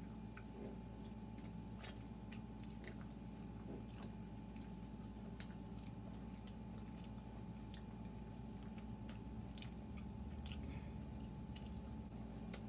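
Close-miked chewing and biting as two people eat pizza and chicken wings: quiet, scattered wet smacks and clicks of mouths and fingers. A steady low electrical hum runs underneath.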